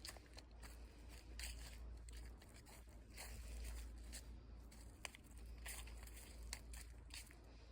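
Footsteps crunching through dry leaves and twigs: faint, irregular crackles, a couple a second, over a low rumble.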